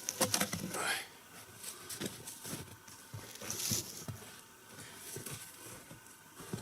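Wooden knocks and scraping as short log chocks are wedged under a log, the loudest cluster in the first second, then scattered lighter knocks.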